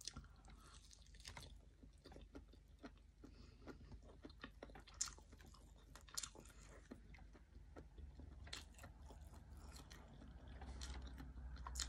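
Faint chewing and mouth clicks of a person eating rice and fried omelette by hand, in many small, irregular ticks.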